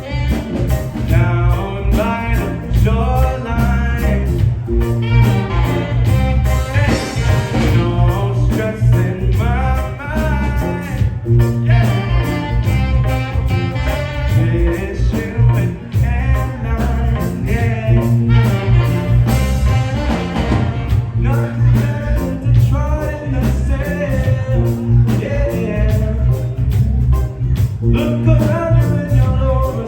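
A live reggae band playing: heavy bass and drums under keys, guitar and horns, with a lead vocal over it.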